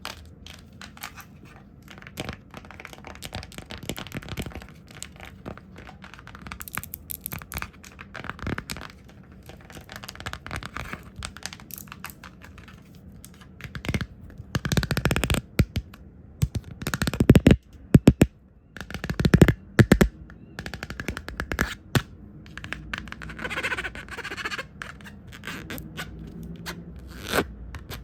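Fast, erratic tapping, brushing and hand sounds close on the microphone, as in ASMR lens tapping. A louder stretch of rapid taps comes about halfway through and lasts several seconds.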